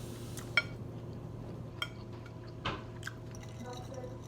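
A person eating up close: chewing with a few sharp wet clicks and smacks, over a steady low hum.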